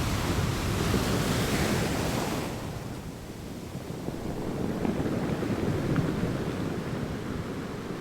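Ocean waves breaking and washing up a beach. The hiss of one wave fades about two and a half seconds in, and a lower rush from the next wave swells and peaks around six seconds.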